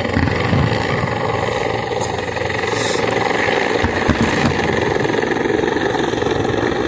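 Distant fireworks barrage: a continuous rumble of overlapping booms and crackling, with a short high hiss about three seconds in.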